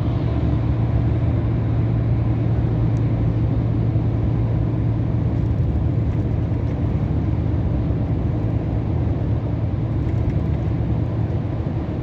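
Scania R500 truck under way, its V8 diesel engine running with a steady low drone over road noise.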